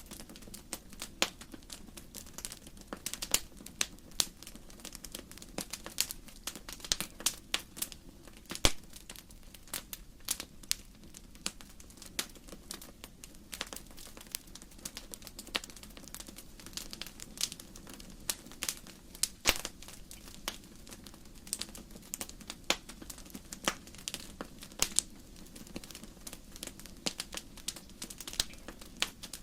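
Wood burning in a fireplace: irregular sharp crackles and pops from the burning logs, several a second, over a low steady rush of the flames.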